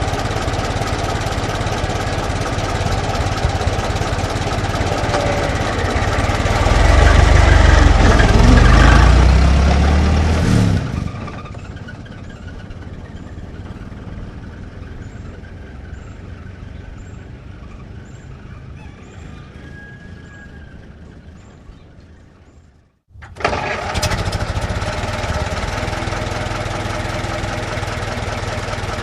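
Old car engine running, then revved harder with a rising pitch about seven seconds in. At about eleven seconds it drops away to a quieter sound that slowly fades. After a moment of silence near twenty-three seconds, the engine noise comes back abruptly and runs steadily.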